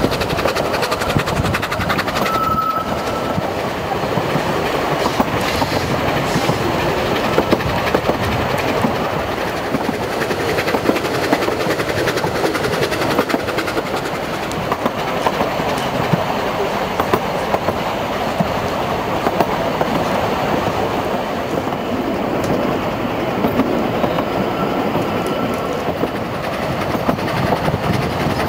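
Narrow-gauge (1 ft 11¾ in) steam train running, heard from a carriage window: a steady rumble and clatter of the coaches' wheels on the track, with a brief thin squeal about two and a half seconds in.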